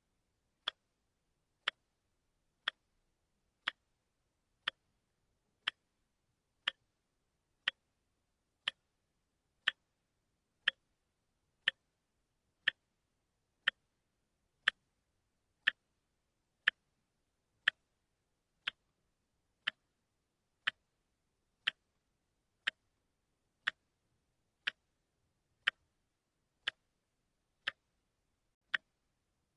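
Wristwatch ticking once a second, a short sharp click each second with silence between: the one-step-per-second tick of a quartz movement.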